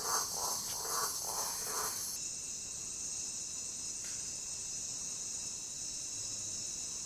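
Nighttime rainforest insect chorus: crickets and other insects trilling in a steady high-pitched wash. Under it, a lower pulsing sound at about two beats a second runs for the first two seconds, then cuts off.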